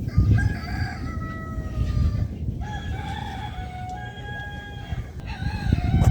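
Long drawn-out animal calls, most likely a bird's, each held about two seconds and following one another with short gaps, over a low rumble.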